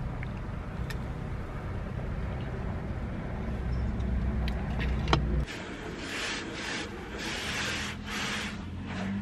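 Car engine running, heard from inside the cabin as a steady low rumble with a few light clicks. About five seconds in it cuts off abruptly, and a hiss swells and fades several times.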